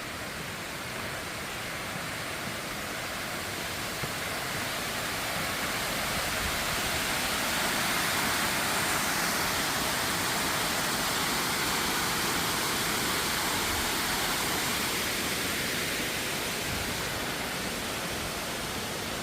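Steady rush of water pouring over a dam, growing louder toward the middle and easing off slightly near the end.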